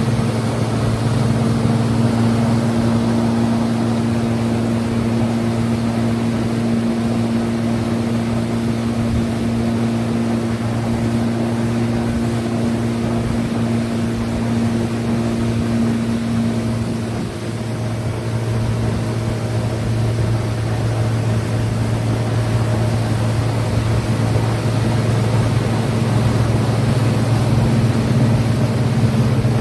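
Watercraft engine running steadily at speed over a constant rushing of wind and water; the engine note eases briefly about two-thirds through, then builds again.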